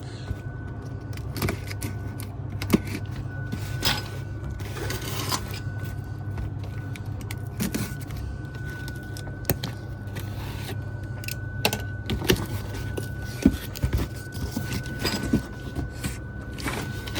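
Handling a delivered cardboard parcel: scattered rustles, taps and knocks, the loudest a few sharp knocks, over a steady low hum and a faint steady high tone.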